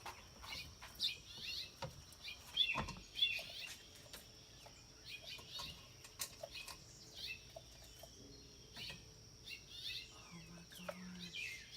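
Small birds in a nest chirping: many short, high chirps in quick clusters, with a soft knock about three seconds in.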